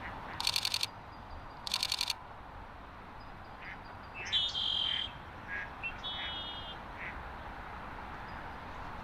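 Ducks quacking in a series of calls. Two short bursts of rapid clicks come early, and there are a few higher bird calls in the middle.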